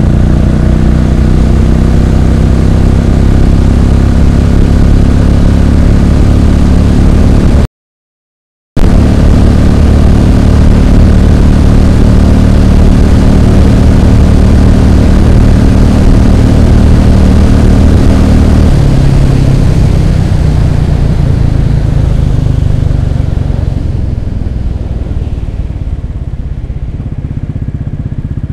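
Royal Enfield Classic 500's single-cylinder engine running steadily under load while riding. The sound cuts out for about a second early on. About two-thirds through, the engine note drops and the sound gradually gets quieter as the bike eases off.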